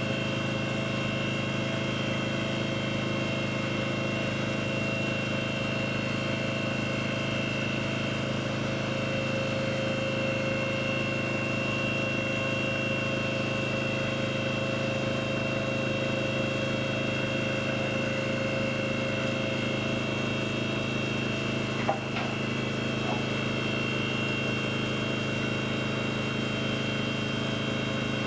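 A machine running steadily at an even speed with a constant, unchanging hum and no revving. A single short knock comes about 22 seconds in.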